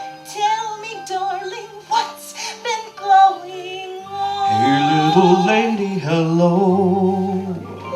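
A woman singing a held, wavering melody from a stage musical, with accompaniment. About halfway through, a lower sustained part comes in under the voice.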